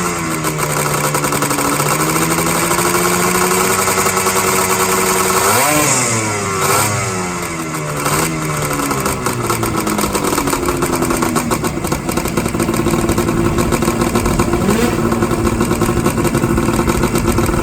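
Race-built 440cc two-stroke engine of a 1974 Ski-Doo Blizzard clone snowmobile warming up: running steadily, revved up sharply once about six seconds in and falling back over a few seconds, then settling into a steady idle.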